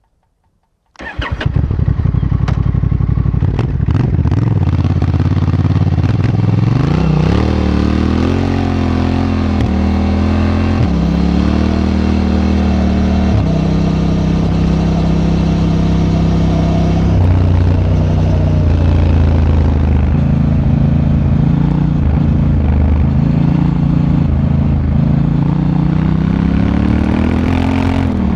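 Honda Africa Twin motorcycle engine starting about a second in, then running loudly, its pitch rising and falling repeatedly as the bike is ridden off and accelerated.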